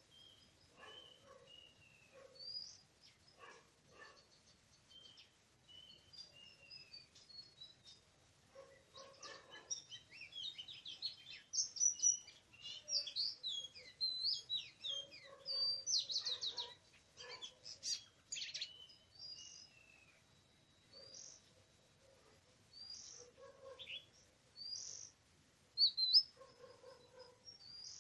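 Oriental magpie-robin singing: a varied string of short whistles, chirps and trills, busiest and loudest through the middle stretch.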